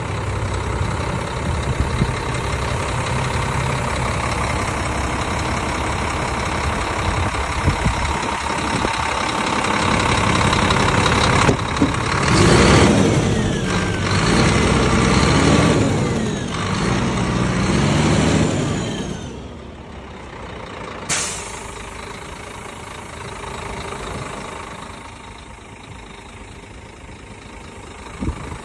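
Scania G 410 truck's diesel engine running, growing louder and busier for several seconds around the middle, then falling back to a quieter idle. A single short, sharp hiss comes about two-thirds of the way through.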